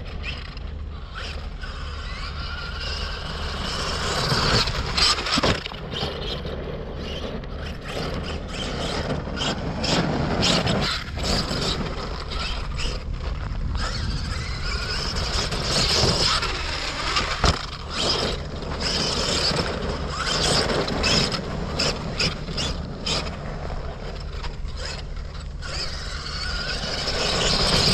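Arrma Kraton RC car with a 700KV Leopard brushless motor running hard, its motor and drivetrain noise swelling and easing as it accelerates, with many sharp knocks and clatters from the car.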